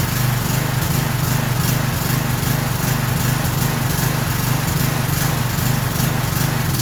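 Craftsman 6.75 horsepower lawn mower engine running steadily. The owner thinks gasoline overflow has gone into its muffler.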